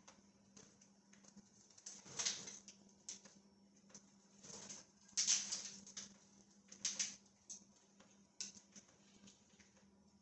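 Pet budgies moving about: scattered light taps and short scratchy bursts, the loudest about five seconds in, over a steady low hum.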